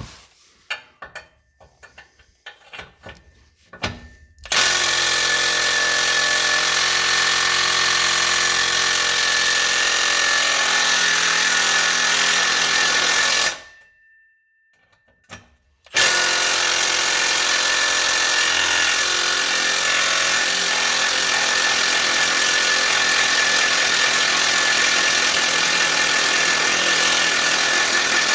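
A power tool runs in two long stretches, about nine and twelve seconds, with a short stop between: a harsh, loud noise with a steady high whine over it, started and stopped abruptly. A few light clicks of handling come before it.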